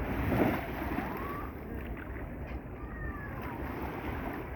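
Seaside ambience: a steady wash of sea and wind at the shore.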